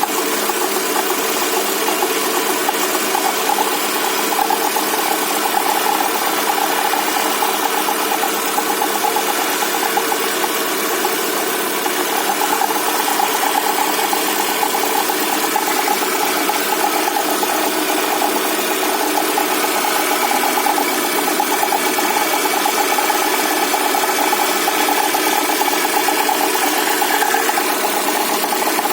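Engine running steadily with a constant whistle from the engine.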